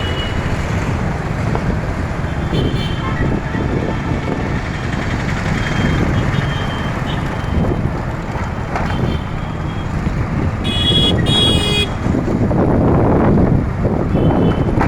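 Steady road traffic rumble with vehicle horns sounding here and there; two short honks close together about eleven seconds in are the loudest.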